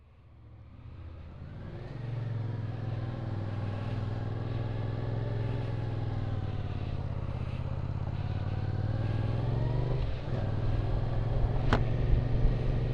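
Yamaha Tracer 700's 689 cc parallel-twin engine pulling away and riding at low speed, its pitch rising and falling with the throttle. It fades in over the first two seconds and has a brief dip about ten seconds in. A single sharp click sounds near the end.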